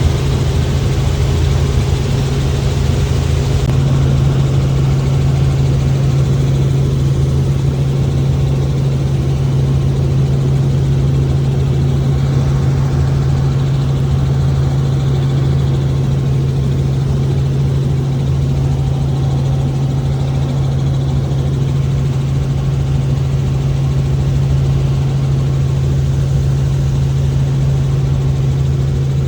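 Helicopter in flight: a loud, steady engine and rotor drone with a constant low hum.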